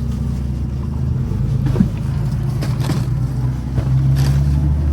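Car running: a steady low engine drone, with a couple of short knocks in the middle and a swell near the end.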